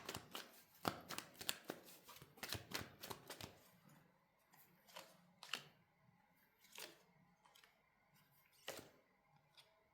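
Tarot cards being shuffled and handled, faintly: a quick run of soft card clicks and riffles over the first three or four seconds, then a few scattered clicks.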